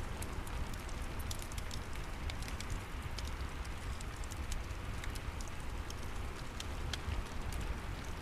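Steady rain mixed with a crackling wood fire: frequent small sharp crackles and pops over an even hiss of rain and a low rumble.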